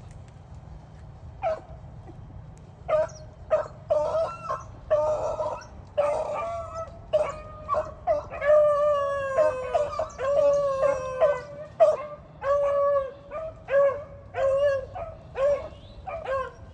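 Beagles baying: a pack of hounds giving repeated short yelping bays and longer drawn-out howls, starting about a second and a half in, with several voices overlapping in the middle.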